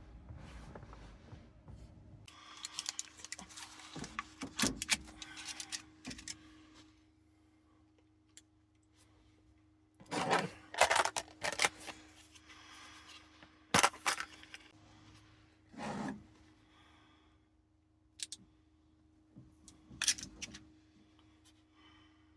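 Metal cookware and utensils being handled: scattered clinks and knocks with some rustling, the loudest knocks coming in clusters about ten, fourteen, sixteen and twenty seconds in, over a faint steady hum.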